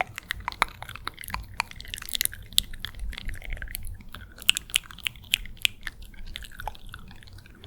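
Close-miked wet ASMR mouth sounds: quick, irregular clicks and smacks of lips and tongue, coming thick and fast.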